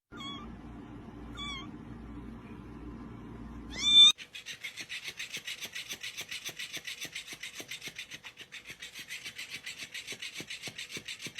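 A cat meows twice faintly, then once loudly with a rising pitch. A rapid, even rasping of about ten strokes a second follows.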